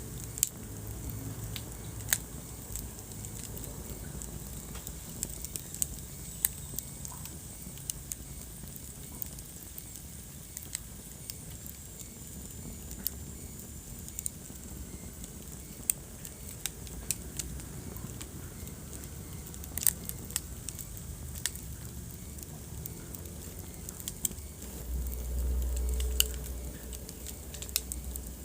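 Wood fire burning in a fireplace, crackling with frequent irregular sharp pops over a steady low rumble. Late on, the low rumble swells louder for a second or two.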